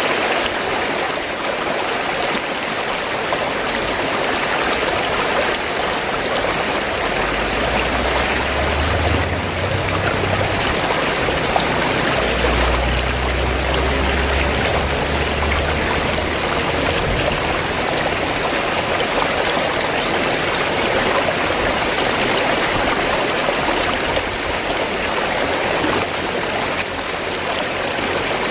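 Fast-flowing stream water gurgling steadily. A low rumble runs underneath for several seconds in the middle.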